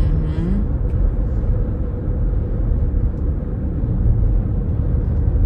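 Car cabin road noise while driving: a steady low rumble of tyres and engine with a faint steady hum.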